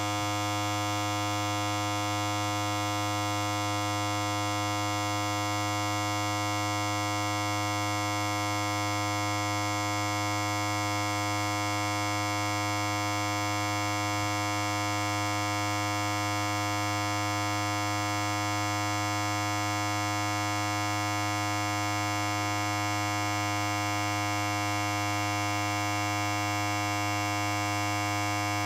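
Electric hair clipper running continuously: a steady, unchanging low buzz from its vibrating blade.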